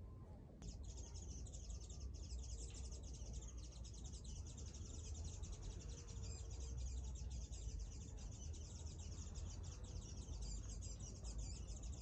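Many small birds chirping at once in a dense, continuous high twittering, starting about a second in and cutting off abruptly at the end, over a low background rumble.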